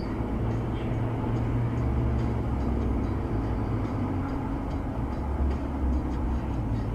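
Steady low rumble of a vehicle's engine and road noise while driving, with no sudden events.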